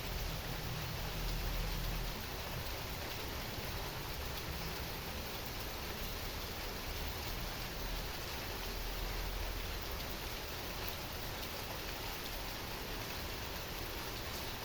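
Heavy rain falling steadily, an even hiss of drops, with a low rumble underneath that swells about a second in and again around the middle.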